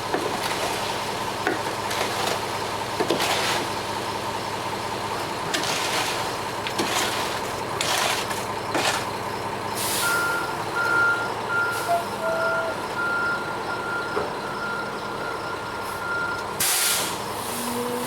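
Ready-mix concrete truck running, its reversing alarm beeping about twice a second from about ten seconds in. There are short hissing bursts throughout, the loudest near the end.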